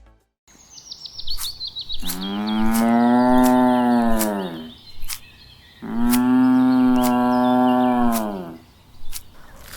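A cow mooing twice, two long calls of about two and a half seconds each that drop in pitch at the end. A bird chirps in the first couple of seconds, with scattered sharp ticks throughout.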